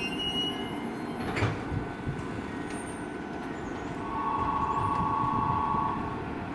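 Keisei Main Line train at a station, with steady low rumble. A sharp clack comes about a second and a half in, followed by a few thumps. About four seconds in, a steady two-note electronic tone sounds for around two seconds.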